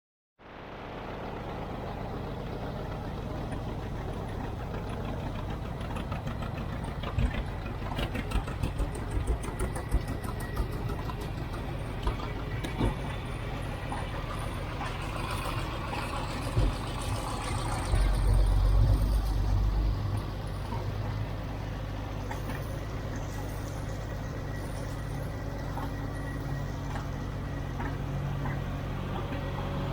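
Farm tractor engines running steadily, with scattered clatters and knocks and a louder low rumble for a couple of seconds partway through.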